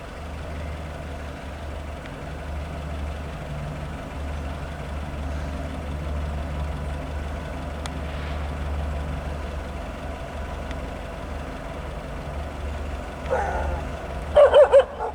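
Low, steady drone of diesel locomotive engines as a ballast train approaches slowly at restricted speed. Near the end a dog gives a few quick, high yips.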